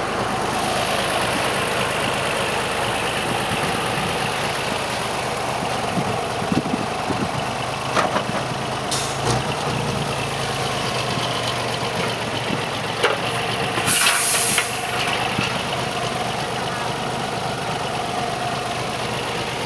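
BMW car engine running steadily while the car sits stuck, its rear wheel dug into loose sandy soil. A brief hiss about two thirds of the way through.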